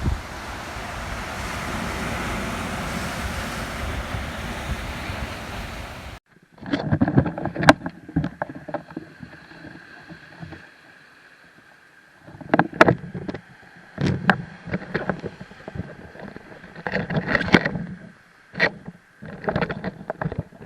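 Rough sea: a steady rush of waves and wind noise on the microphone for about six seconds, then it cuts off suddenly. After that come irregular bursts of sound and sharp clicks against a quieter background.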